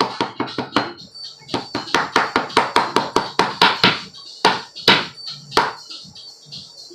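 A quick run of sharp knocks, about three or four a second, that stops about five and a half seconds in, over background music.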